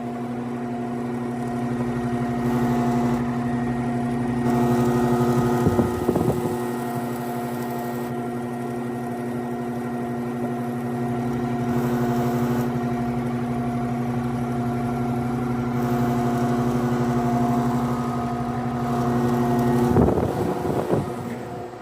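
Carrier 25HBC560A003 heat pump running in cooling mode: a steady mechanical hum from the compressor and outdoor fan. A brief louder rush comes about six seconds in and again near the end.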